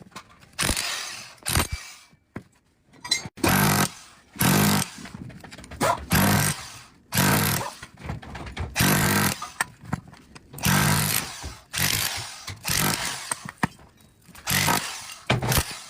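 A power tool working on an electric motor during its teardown for copper, run in short bursts of about half a second, roughly one a second.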